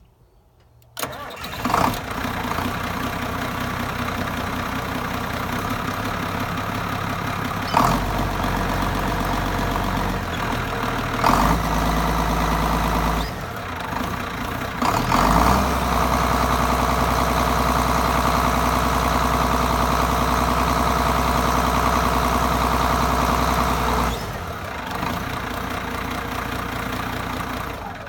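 1980 Case 2390 tractor's turbocharged six-cylinder diesel engine starting about a second in, then idling. It is revved up briefly a few times, held at higher revs for about ten seconds, then drops back to idle.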